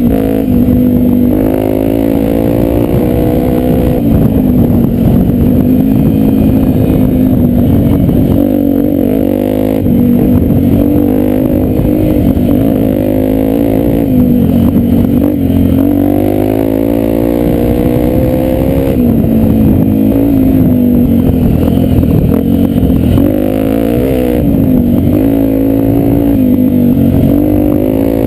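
Honda Tornado 250's single-cylinder four-stroke engine running under load while being ridden, its pitch rising and falling again and again as the throttle is opened and eased off.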